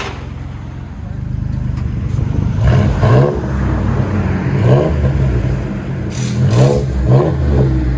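Ford Ranger 3.0L V6 on straight-pipe dual exhaust, running and then revved in several quick blips from about a second in. The exhaust still passes through several catalytic converters, which keep the straight-piped tone subdued, as if it had a muffler.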